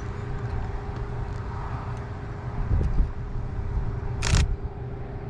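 Steady low rumble and hum of a vehicle engine running. About four seconds in comes a short, sharp burst, a camera shutter firing rapidly.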